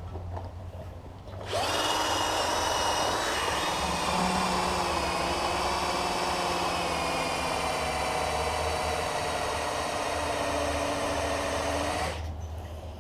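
Electric drill running under load for about ten seconds, its bit grinding against the metal of the inner can; the bit is blunt and not cutting through. It starts about a second and a half in and stops shortly before the end.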